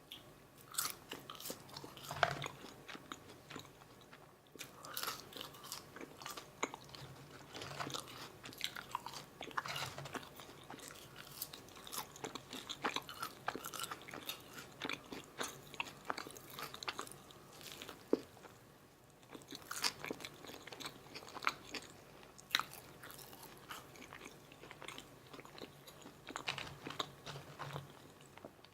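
Close-miked chewing and biting of McDonald's Filet-O-Fish meal food: irregular crunching and crackling with wet mouth sounds, in quick runs broken by a couple of brief pauses.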